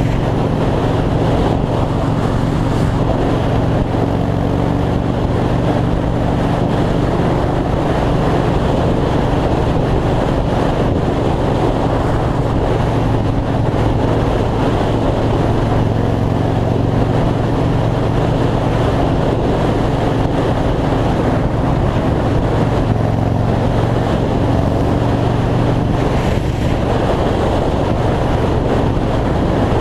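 2003 Yamaha Road Star's air-cooled V-twin engine running steadily at highway cruising speed, with heavy wind noise on the microphone.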